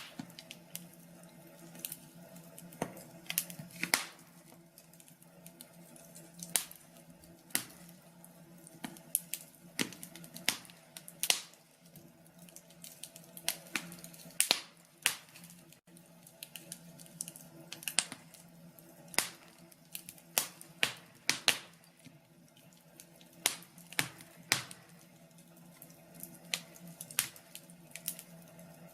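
Wood fire in a fireplace crackling: irregular sharp pops and snaps, a few clustered together at times, over a faint steady hum.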